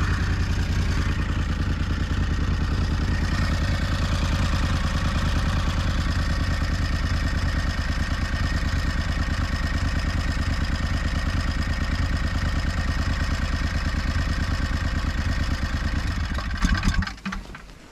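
Snowmobile engine running steadily at an even speed, heard close up. The sound drops away sharply near the end.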